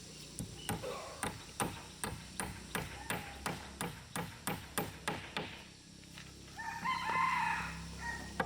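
Hammering, about three blows a second for some five seconds, then a drawn-out animal call near the end.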